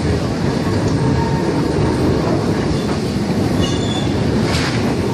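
Heritage railway train running on the line: a steady rumble of wheels on the track, with a brief high wheel squeal about three and a half seconds in, followed by a short hiss.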